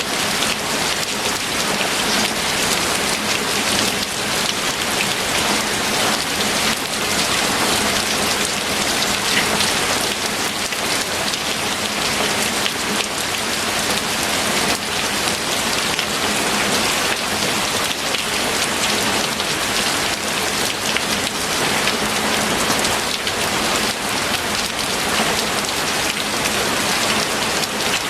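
Steady rain falling and pattering on a surface, an even hiss of many small drops with no letup.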